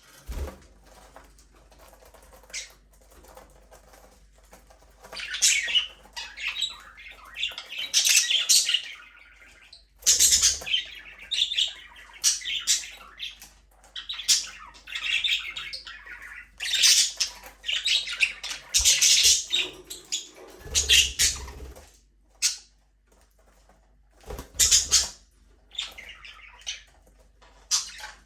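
A flock of budgerigars chirping and squawking in bursts a second or two long, with quieter gaps between, and some wing fluttering.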